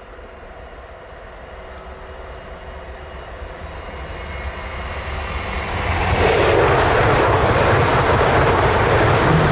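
A train approaching and passing close by: it grows steadily louder, then from about six seconds in its wheels and cars on the rails make a loud, steady rush.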